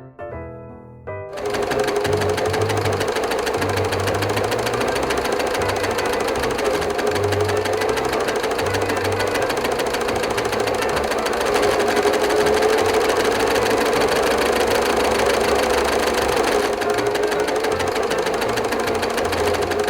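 A machine running with a fast, steady rattle and hum, starting abruptly about a second in, with music playing alongside.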